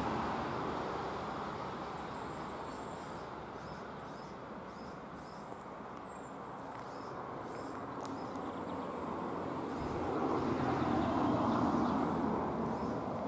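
Rumble of a passing train fading away, with faint bird chirps, then traffic noise swelling again about ten seconds in before easing off.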